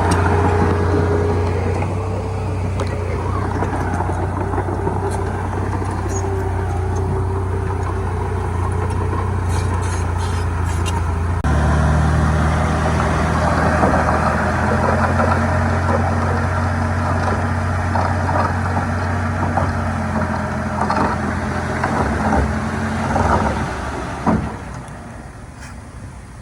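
Heavy diesel engine of earthmoving machinery running steadily. The engine note changes abruptly about eleven seconds in, then the level falls away near the end.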